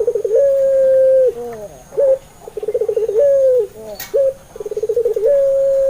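Puter pelung dove cooing in repeated phrases. Each phrase is a fast rolling run of short notes that leads into one long held coo, then a short single note. About three phrases.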